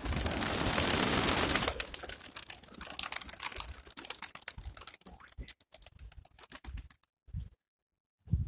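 Strong north wind buffeting the microphone: a dense crackling rush for the first couple of seconds, then scattered crackles that thin out, with a few low thumps near the end.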